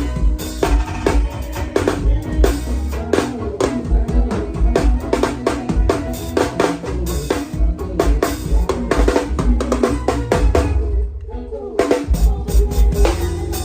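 Drum kit played along to a forró song, with kick and snare strokes over bass and keyboard lines. The drums and music drop out for about a second near the end, then come back in.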